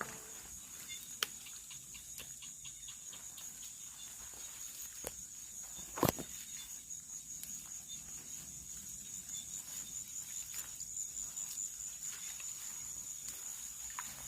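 Night insects, crickets or similar, trilling in a steady high-pitched drone, with scattered faint ticks and rustles. A single sharp click stands out about six seconds in.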